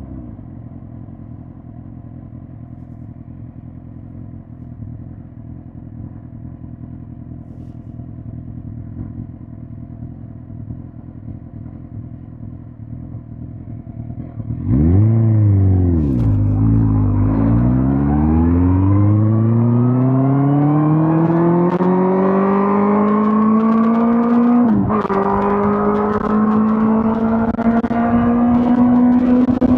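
2005 Suzuki GSX-R1000 K5's inline-four engine ticking over steadily for about fifteen seconds. It then revs up sharply and pulls away hard, its pitch climbing through the gear, with an upshift about 25 seconds in before it keeps accelerating.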